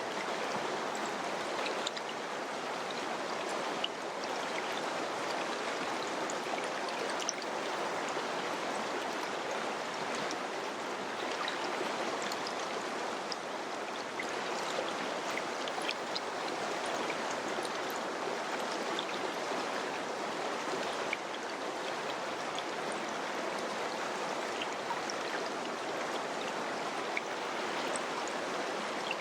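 Mountain river rushing steadily over rocks, an even flow of water with small splashes and droplets flicking through it.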